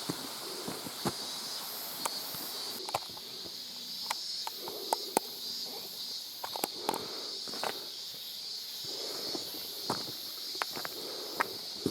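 Irregular sharp clicks and knocks of a hiker's steps on a wet, rocky stream-bed trail, over a steady high hiss.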